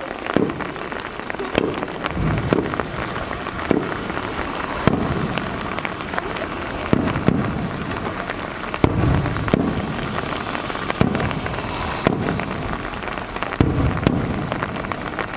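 Fireworks shells bursting, about one dull boom every second or so at uneven intervals, each with a low rumble after it, over the steady hiss of falling rain.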